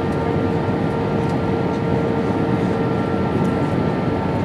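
Steady cabin noise inside an Airbus A320-232 as heard from a window seat: the rush of the airframe and the hum of its IAE V2500 turbofans, with several steady whining tones held over it.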